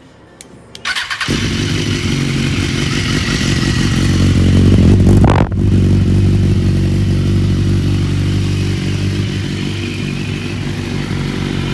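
BMW S1000RR inline-four engine starting about a second in and running steadily, rising in level towards the middle with a sharp momentary dip, then settling into an even run.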